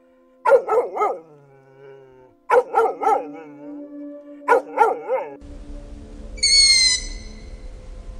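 A dog barking in three quick bursts of three or four barks each, about two seconds apart. About five seconds in, a different recording with a steady hiss takes over, carrying one short, high, whistled animal call that falls slightly.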